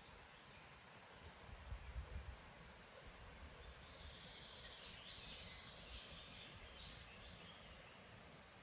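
Faint woodland birdsong: scattered short high chirps and a thin trilling phrase in the middle, over a quiet steady hiss. A few low bumps come about two seconds in.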